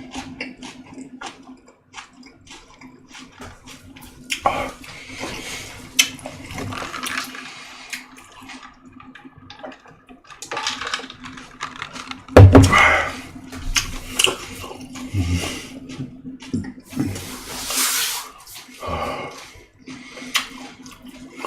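Close-miked chewing and wet mouth sounds of a person eating boiled pork and fermented skate: irregular smacks, clicks and short squelching bursts, loudest about halfway through, over a faint steady hum.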